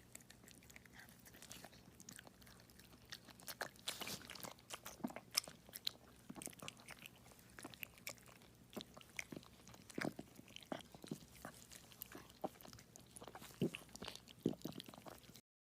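A dog's mouth sounds: irregular wet smacks, clicks and crunches of licking and chewing, close to the microphone, stopping abruptly near the end.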